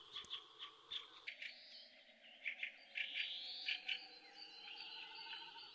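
Faint outdoor birdsong: scattered short chirps and a few whistled phrases that rise and fall in pitch.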